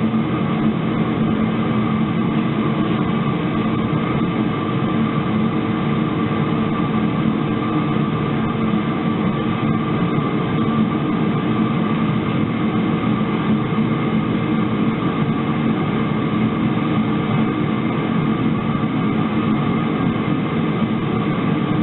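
Metal-melting furnace's burner running steadily: a constant rushing noise with a low hum, holding the melt at about 1200 °F.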